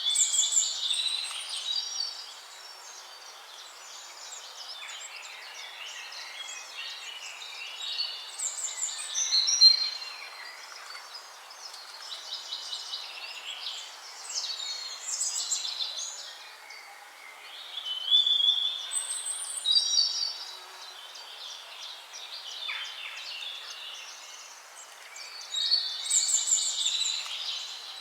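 Songbirds singing: phrases of quick high chirps and trills every few seconds, over a faint steady hiss.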